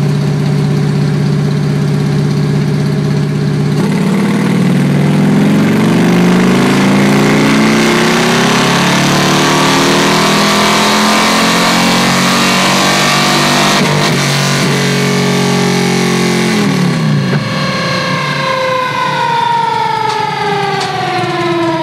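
Harley-Davidson 2013 CVO Road Glide's 110 cubic inch Twin Cam V-twin, through a Fullsac 2-into-1-into-2 exhaust with Rinehart 4-inch mufflers, doing a wide-open-throttle dyno pull. It runs steadily at low revs for about four seconds, then the pitch climbs steadily for about ten seconds; around sixteen seconds the throttle closes and the revs fall away to the end.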